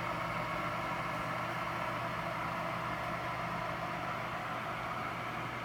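Steady hum of a microwave oven running, mixed with water bubbling toward the boil in a glass electric kettle.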